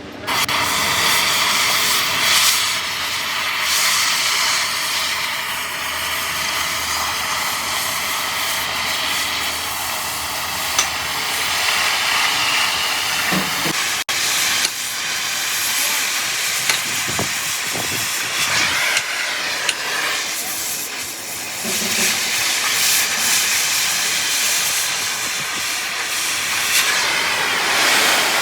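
Loud, steady hissing that starts abruptly, with a few brief knocks partway through.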